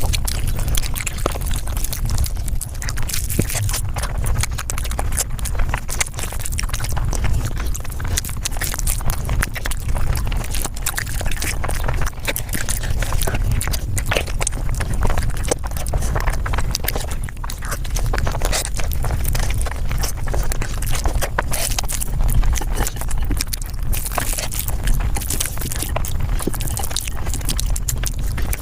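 Mukbang eating sounds played back at five times speed: a dense, continuous clatter of rapid chewing and mouth clicks over a steady low rumble.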